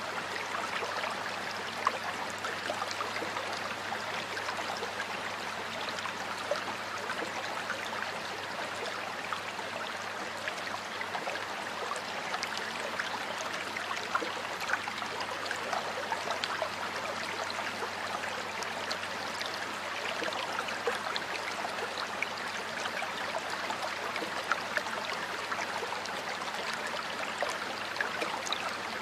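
Stream of water flowing steadily, with a constant burble and many small splashes and trickles.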